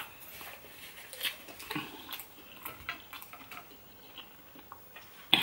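Close-miked chewing of a piece of battered fish: faint, scattered wet mouth clicks and smacks, a few a second.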